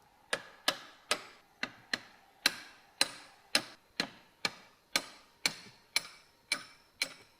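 Hammer tapping steadily on the steel handle of a car's scissor-type emergency jack to drive it out. There are about sixteen sharp metallic taps, roughly two a second, each ringing briefly.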